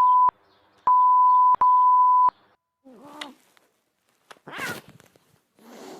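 Censor bleep: a steady pure beep tone sounding three times in the first two seconds, one short and two longer, followed by a few brief, quieter, noisy sounds.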